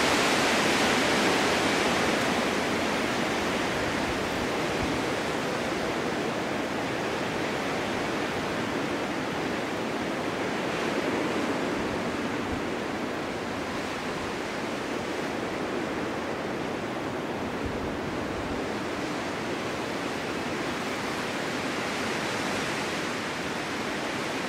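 Snowstorm wind blowing as a steady rushing noise, strongest at the start and easing after a few seconds, with a small swell about eleven seconds in.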